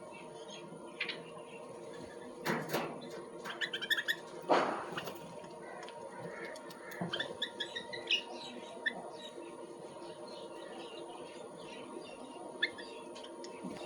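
Small birds chirping in short scattered notes, with two loud flurries of wing flapping about two and a half and four and a half seconds in.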